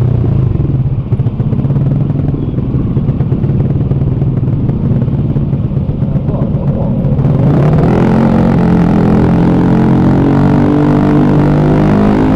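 Honda Beat scooter's single-cylinder engine running freshly rebuilt, revving up about seven seconds in and then holding a higher steady speed.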